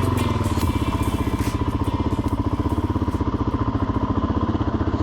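Motorcycle engine idling steadily with an even, rapid pulsing beat.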